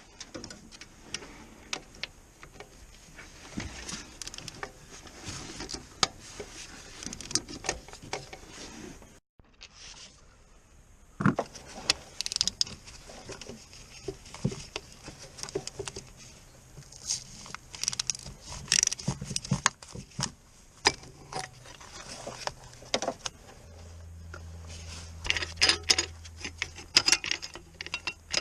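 Metal hand tools and parts clinking and clattering in quick irregular bursts, as in dismantling work on a car. A low steady hum sets in near the end.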